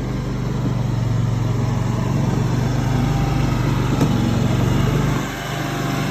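Tracked mini skid steer's engine running steadily while it works, easing off a little about five seconds in.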